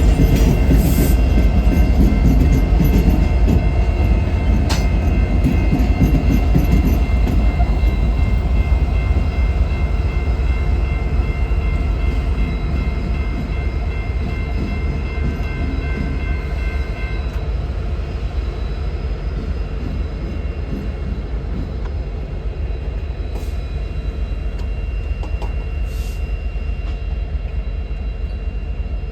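Train rolling past with a heavy low rumble from the railcars, slowly fading. A set of steady high-pitched tones runs over it and stops about seventeen seconds in.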